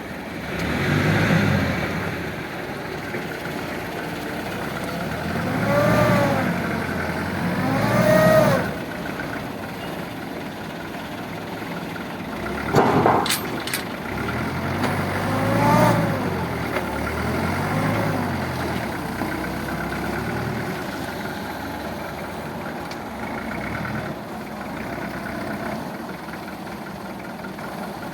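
Truck engine running while the truck manoeuvres, revving up and back down several times. There is a brief loud sharp burst about halfway through.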